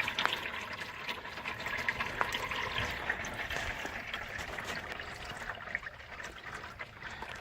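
Hot engine oil pouring in a steady stream from the open drain plug hole of a 2005 Ford F-250's 6.0 Power Stroke oil pan, just after the plug is pulled.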